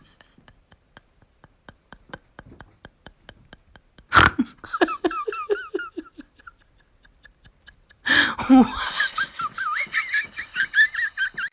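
Faint, quick, even pulses for about four seconds, then a sharp click. After it comes high-pitched rapid laughter in quick wavering bursts, with a second sudden break a little after eight seconds and more laughter after that.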